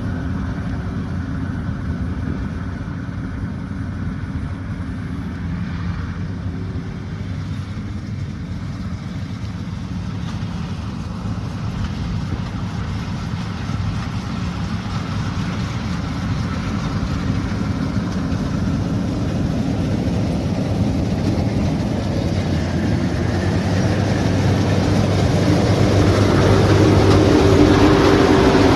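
Diesel engine of a combine harvester running steadily. It grows louder over the second half, with a higher whine coming in near the end.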